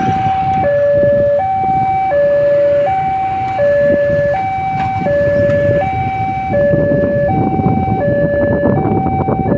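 Railway level-crossing warning alarm sounding a steady two-tone signal that alternates low and high about every three-quarters of a second, over street traffic noise. It warns that a train is approaching the crossing.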